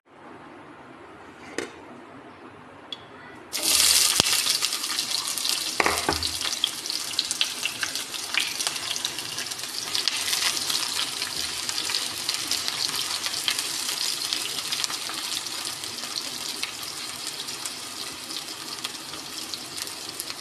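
Water pouring and splashing steadily with a dense hiss, starting abruptly about three and a half seconds in after a couple of faint knocks.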